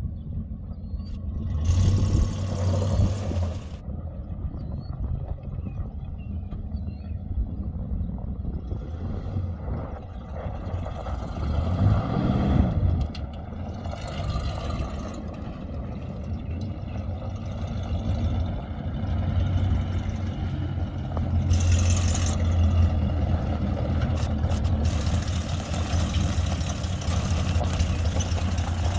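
1980 Chevrolet Silverado 10 4x4 pickup's engine running, brought up in revs several times: briefly about two seconds in and again about twelve seconds in, then held higher for several seconds past the twenty-second mark.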